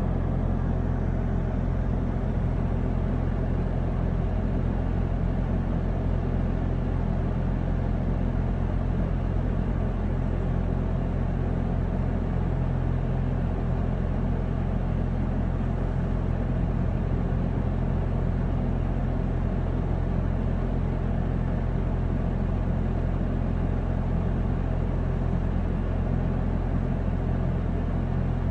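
John Deere 310C backhoe loader's diesel engine running steadily as it works pushing snow, a constant low engine hum.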